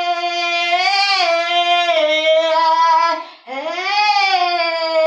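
Unaccompanied solo voice singing long held notes with no clear words. About three and a half seconds in it breaks off briefly, then slides up into another note and holds it.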